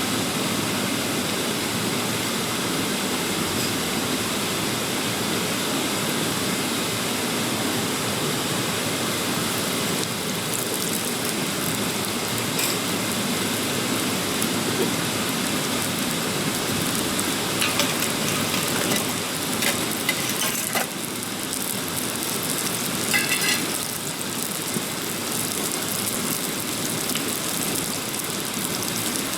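Mountain stream rushing steadily, with a few brief clicks and taps around ten to thirteen seconds in and again around eighteen to twenty-four seconds in.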